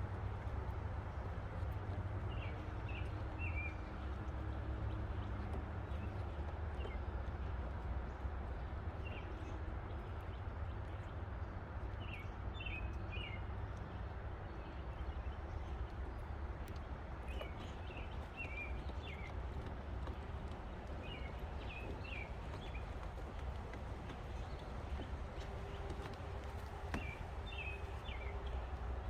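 A bird singing short chirping phrases every few seconds over a steady low outdoor rumble.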